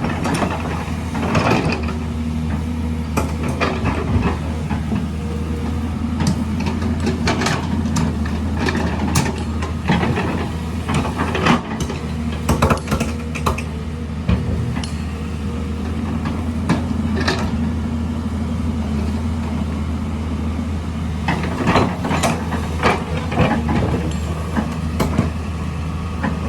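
Heavy construction machine's engine running at a steady hum, with repeated sharp metallic clanks and knocks from the machine working, thickest in the middle and again near the end.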